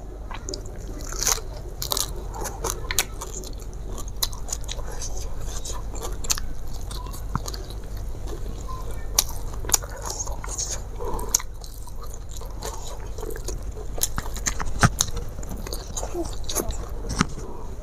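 A person chewing and biting food, picked up close on a lapel microphone, with many short sharp mouth clicks spread through the chewing.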